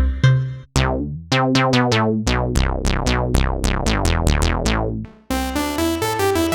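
Roland System-100 software synthesizer auditioning presets. A fast string of short notes, each opening bright and quickly closing down, runs for about four seconds. After a brief break a new patch starts near the end with held, gliding tones.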